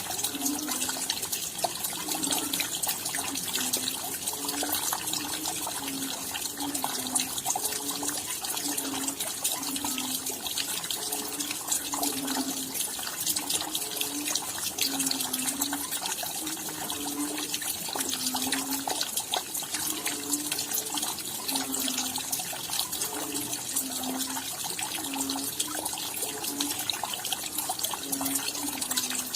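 Steady rain falling, a dense patter of many fine drops, with a low hollow note recurring about once a second.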